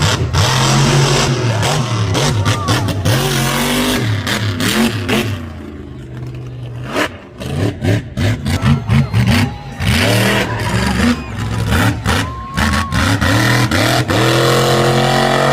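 Monster truck supercharged V8 engines revving hard in an arena, the pitch climbing and falling again and again, with sharp cracks through the run.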